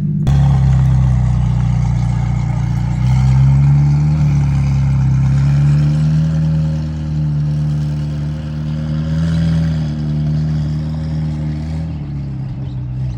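A car's engine and exhaust running steadily while driving, the engine note rising and falling gently.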